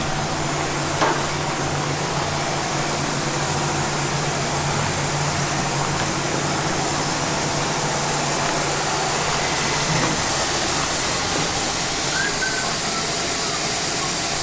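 Steady rush of air from a large fan or blower, with a low hum under it that dies away about ten seconds in.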